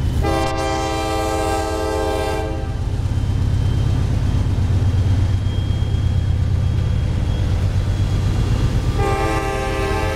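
CSX diesel freight train passing slowly, its locomotives giving a steady low rumble. The train's air horn sounds one blast of about two seconds near the start, and another begins about nine seconds in.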